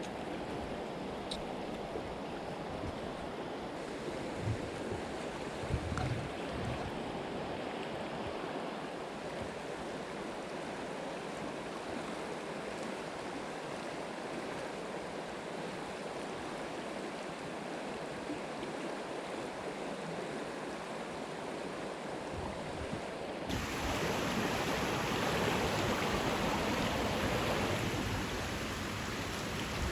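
Creek water running steadily over rocks, with a few low bumps early on. About three-quarters of the way through, the rushing abruptly becomes louder and fuller.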